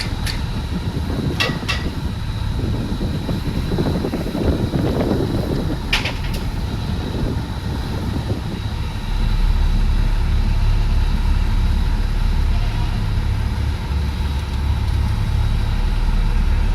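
A heavy vehicle's engine running steadily with a low rumble, with a few sharp clicks in the first six seconds.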